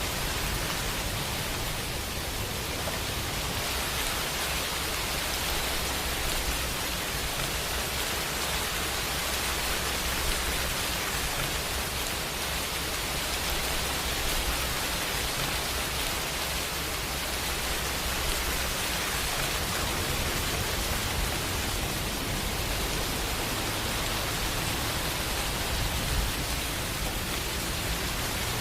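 Steady rain, an even hiss of many drops with a low rumble underneath.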